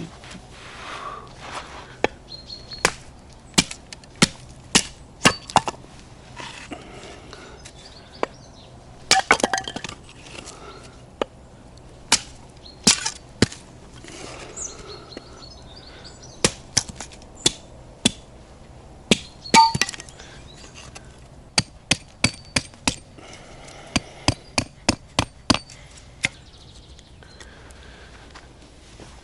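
An irregular series of sharp cracks and snaps, a few dozen in all. Some come singly and some in quick runs of several a second.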